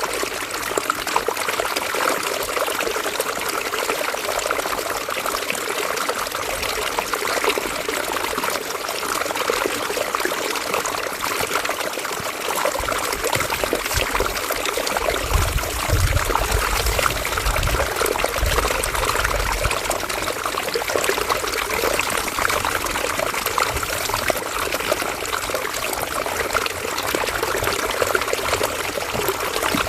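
River water flowing and trickling steadily, with a fine bubbling texture. A low rumble joins in for several seconds around the middle.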